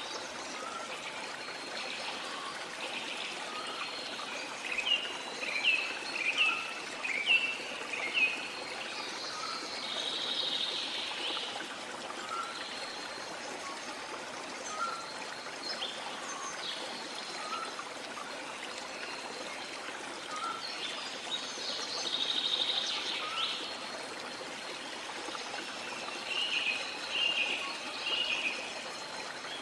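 Sea water washing steadily, with small birds chirping over it: a quick run of chirps about five seconds in and again near the end, and a soft short note repeating about once a second throughout.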